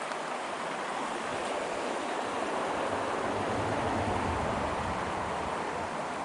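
Small creek running over rocks: a steady rush of flowing water, with a low rumble swelling a little around the middle.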